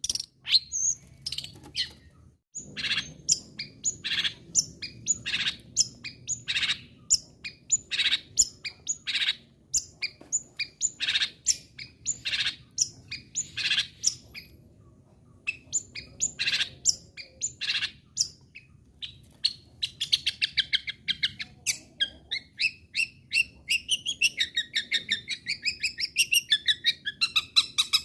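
Long-tailed shrike (cendet) singing: a steady series of short, sharp notes, a little under two a second, then from about twenty seconds in a fast chattering warble that rises and falls in pitch.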